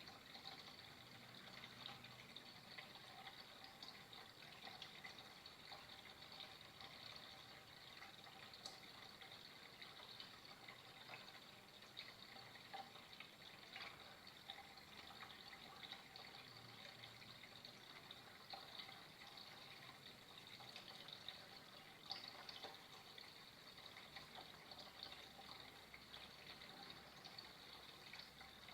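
Faint, steady trickle of flowing water, with small irregular drips and splashes.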